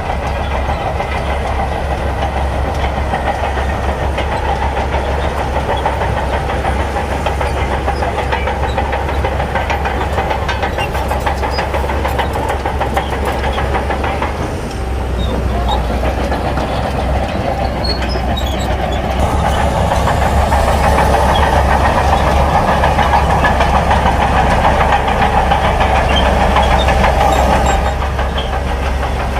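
Heavy diesel earthmoving machinery running steadily under work, getting louder for several seconds from about two-thirds of the way in before dropping back.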